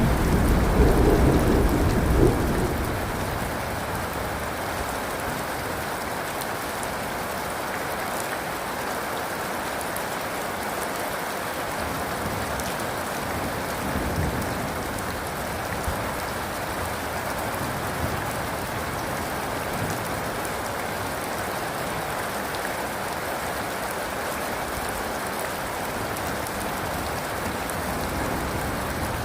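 Steady heavy rain falling, with the last of a thunder rumble dying away in the first two or three seconds.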